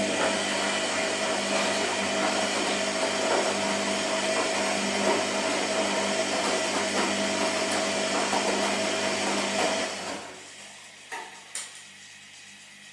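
Washing machine motor whirring steadily with a constant hum for about ten seconds, then winding down and stopping, followed by two short clicks.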